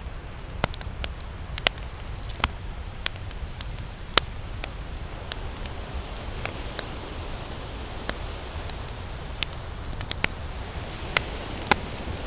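Wood fire crackling, with irregular sharp pops and snaps, a few of them loud, over a low steady rumble.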